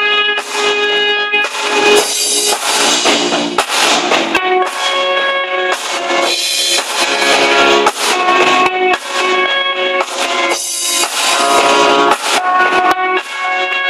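A live band playing music, with guitar and a drum kit.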